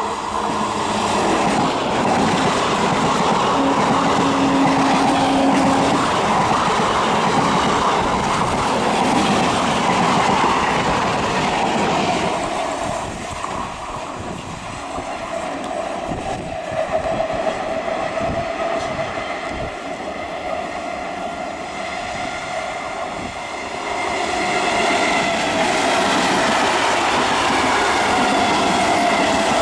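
Electric multiple unit suburban trains running past on a curved double track: the rumble and clickety-clack of wheels over the rail joints. One train's pass fades about midway, then a second builds up loud again. A thin wheel squeal from the curve runs through the second half.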